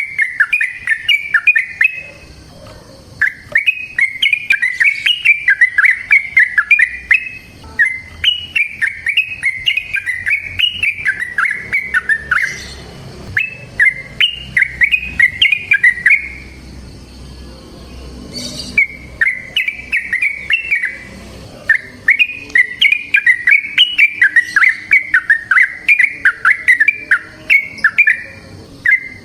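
Yellow-vented bulbul (trucukan) singing its long 'ropel' song: about six bouts of rapid runs of short, quick notes, each bout lasting a few seconds, with brief pauses between.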